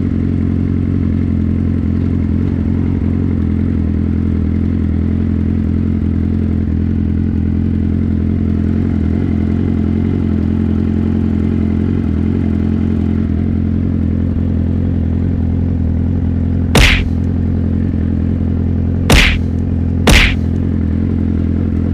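Motorcycle engine running steadily at an unchanging pitch. Three sharp knocks come near the end, two of them close together.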